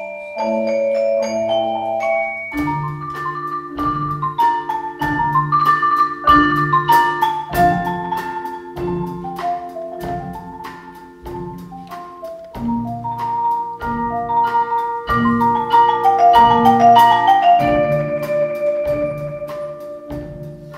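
Percussion ensemble playing: mallet instruments run up and down in quick melodic lines over low held notes. A steady pulse of drum strikes comes in about two and a half seconds in and thins out near the end.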